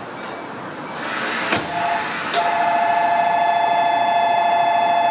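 Shinkansen platform departure bell starting to ring a little over two seconds in: a steady electronic ring on two tones, the signal that the train is about to leave. Before it, a short rush of noise with a sharp click.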